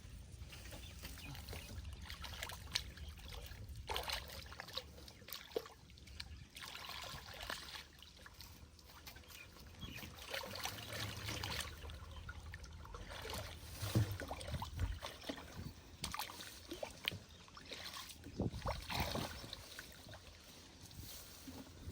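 Water splashing and trickling irregularly, with scattered small knocks and splashes.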